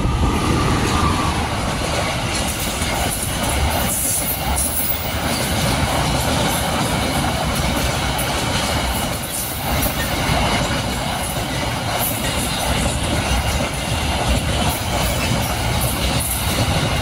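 Container freight train passing close by: a diesel locomotive runs past, then loaded container flatcars roll by with a continuous noise of steel wheels on the rails.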